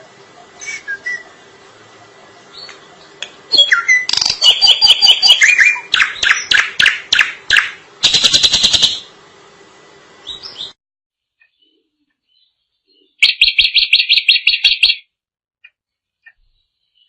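Drongo (srigunting) singing: a loud run of varied whistled and chattering notes, then after a silent gap a fast even series of about ten sharp notes.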